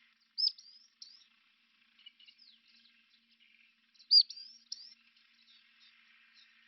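A small bird singing a short, high phrase of quick whistled notes twice, about three and a half seconds apart, over faint steady insect chirring.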